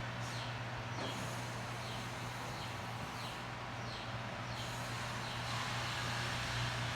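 Mondial Super Power 40 electric fan running steadily: a low, even motor hum with a soft hiss of moving air.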